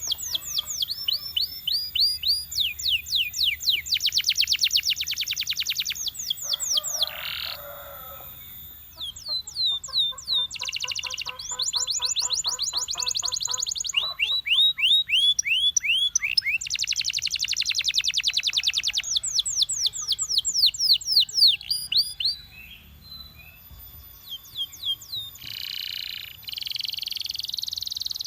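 Belgian canary singing: long fast trills of repeated high, falling whistled notes, changing speed and pitch from phrase to phrase. The song dips briefly about three-quarters of the way through, then resumes.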